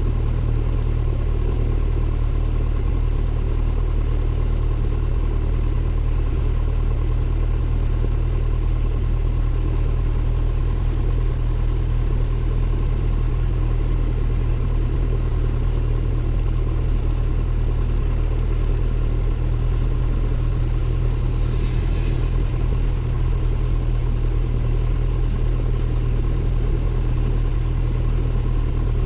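Cessna 172N's four-cylinder Lycoming engine and propeller running steadily, a constant low drone heard inside the cockpit.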